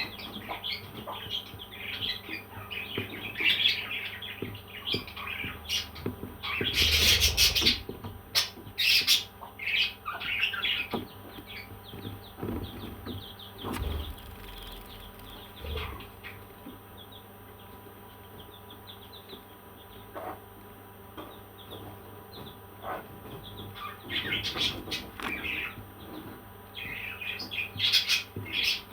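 Parrots chirping in short, high calls, with a loud harsh burst about seven seconds in. The calls thin out in the middle, then the chirping picks up again near the end.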